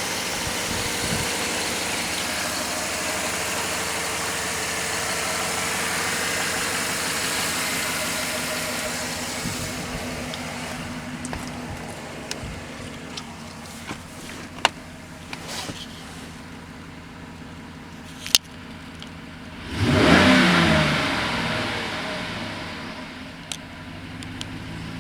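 Chevrolet 5.3 L LMG Vortec V8 running, with a steady hiss for the first several seconds, then settling to a quieter idle with a few sharp clicks. About twenty seconds in, one quick throttle blip sends the revs up, and they fall back to idle over the next couple of seconds.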